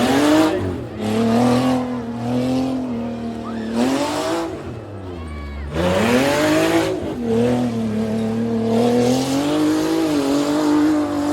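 A tough-truck engine revving hard and easing off over and over as the truck is driven through the course, its pitch swinging up and down. The revs drop off and climb back sharply twice, about half a second in and again around five seconds in.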